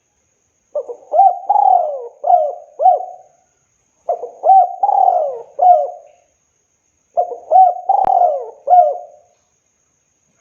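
Spotted dove (tekukur) cooing: three phrases of about five notes each, with a short pause between phrases.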